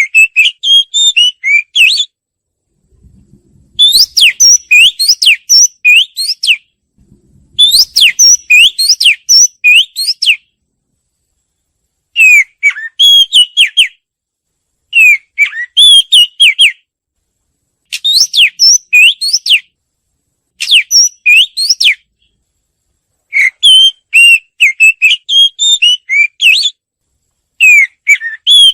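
Oriental magpie-robin singing loudly. The song comes in repeated phrases of quick, varied whistled notes that slide up and down in pitch, each phrase two to three seconds long with short pauses between.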